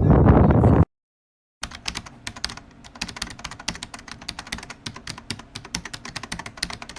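Loud rushing noise, most likely wind on the microphone, cuts off abruptly a little under a second in. After a brief silence comes a dense, irregular run of small sharp clicks and ticks, several a second, lasting to the end.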